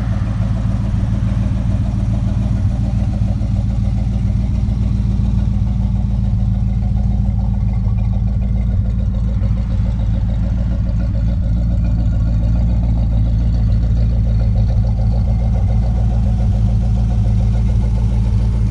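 A 1932 Ford Roadster's 409 V8 engine running steadily at an even speed, with a deep, unchanging firing pulse.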